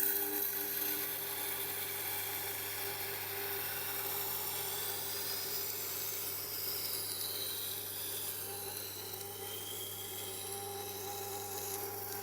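Steel knife edge grinding against the slowly turning stone of a Tormek T8 wet grinder: a steady scraping hiss over the grinder's low motor hum. It starts abruptly as the blade meets the stone. This is the coarse sharpening stage on the rough stone, before a burr has formed.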